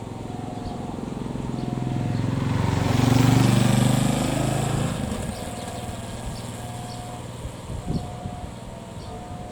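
A motor vehicle's engine passes close by, rising to its loudest about three seconds in and then fading. Under it, a level crossing's warning signal rings a repeating two-tone ding.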